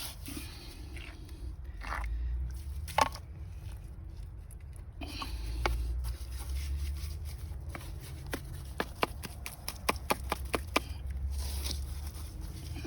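Paintbrush working wet patching cement over cracks in concrete and rock: scrapes and sharp clicks, one loud click about three seconds in and a quick run of clicks near the end. Low rumbling swells of wind on the microphone.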